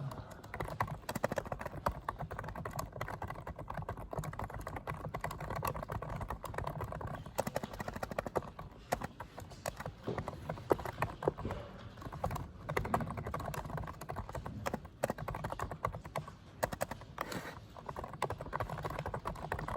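Computer keyboard typed on rapidly and continuously: a dense clatter of keystrokes with occasional harder key strikes.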